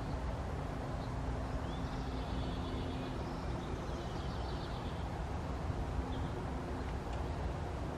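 Steady low outdoor rumble like traffic on a nearby road, with a faint engine hum and a few faint bird chirps.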